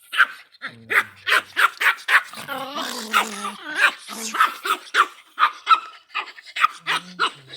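Dog barking rapidly and repeatedly, about three barks a second, with a short pitched, wavering cry in the middle.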